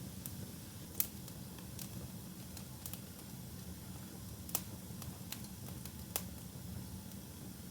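Wood fire burning in a fireplace: a steady low rumble of flames with sharp, irregular crackles and pops, the loudest about a second in, again midway and near the end.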